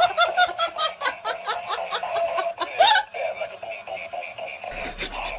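Laughing in quick repeated pulses, about five a second, for about three seconds, then dying down.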